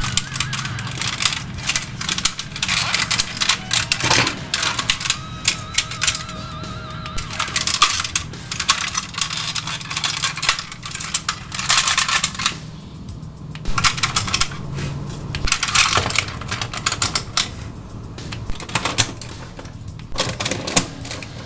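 Rapid, irregular clicking and clacking of plastic toy robot parts being handled, turned and snapped together, over background music.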